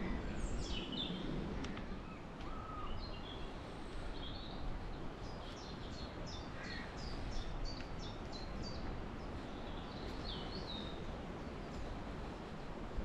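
Wild birds singing over a steady low wind rumble: scattered high chirps and sweeping calls, with a run of quick repeated high notes, a few per second, in the middle.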